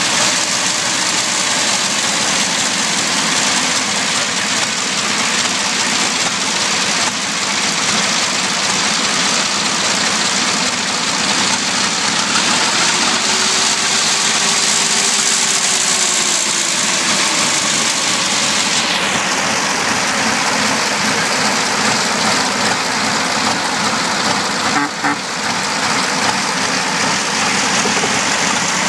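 The 1909 Alco-6 racer's six-cylinder engine running steadily with the hood open. The sound is a loud, dense mechanical noise that holds at one level.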